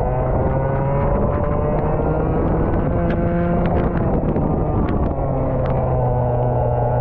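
Racing kart engine heard onboard, running hard with its revs rising and falling through the corners, with scattered short ticks over it.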